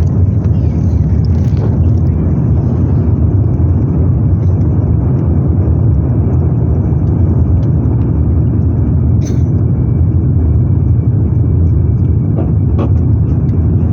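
Steady low rumble of an Airbus A350-900's Rolls-Royce Trent XWB engines and rushing air, heard inside the passenger cabin. A few faint clicks sound over it.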